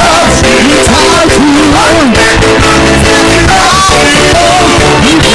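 Live worship music: a band with electric guitar and a sung or ad-libbed vocal line over sustained chords, played loud and steady.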